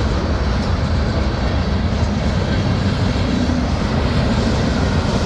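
CSX freight train passing close by at high speed: a loud, steady, deep rumble of steel wheels on rail with rushing air.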